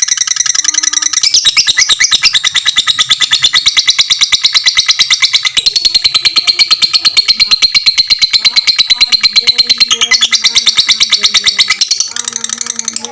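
Lovebird singing a long ngekek: a loud, unbroken chatter of very rapid, high, shrill repeated notes.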